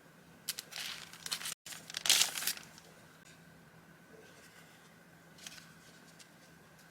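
Paper rustling and crinkling as vintage journaling papers are handled, in a few short bursts, the loudest about two seconds in. The sound cuts out completely for a split second before that loudest crinkle, and afterwards only faint light touches are heard.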